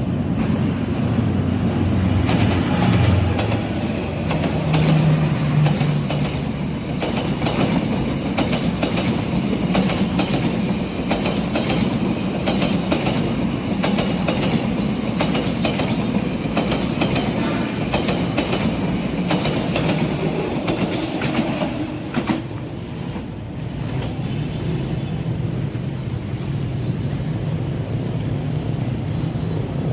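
Vietnamese passenger train SE3, led by D19E diesel-electric locomotive 954, running past with a steady low engine drone and a continuous clickety-clack of wheels over the rail joints.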